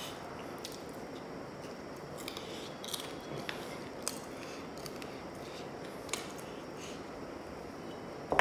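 A person chewing a piece of chicken: soft mouth sounds with a handful of short, sharp clicks over a steady hiss.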